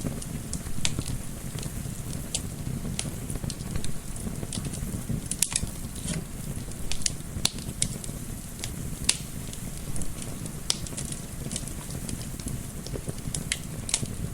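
Wood fire crackling, with sharp irregular pops and snaps, some louder than others, over a steady low rumble of flame and gentle wind.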